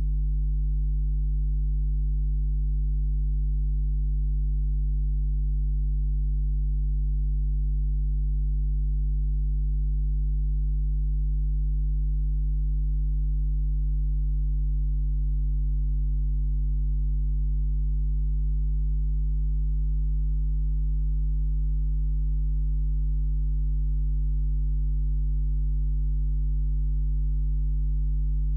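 Steady low electrical hum, unchanging throughout, with no other sound over it.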